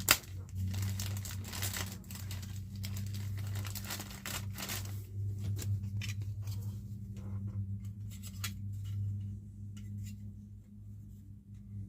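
A plastic parts bag crinkling and being cut and torn open to free a plastic model kit's truck cab, with scattered small clicks and rustles of handling. A steady low hum runs underneath.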